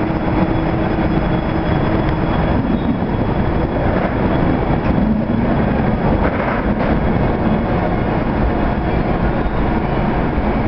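Locomotive-hauled passenger train pulling out, its coaches rolling past with a steady rumble of wheels on rails.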